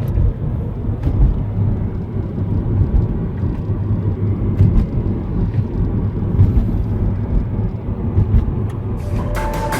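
Car road noise while driving: a steady low rumble of engine and tyres. Music starts near the end.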